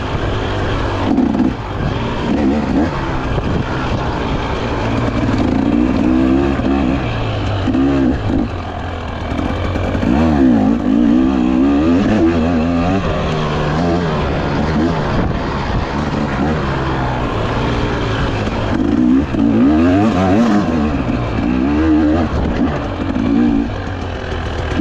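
Dirt bike engine being ridden, revving up and falling back over and over, its pitch rising and dropping with the throttle.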